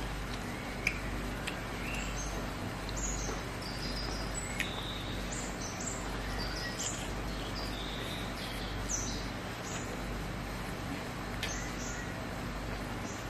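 Small birds chirping and twittering in short high calls scattered throughout, over a steady low hum, with a few soft clicks and smacks from eating by hand.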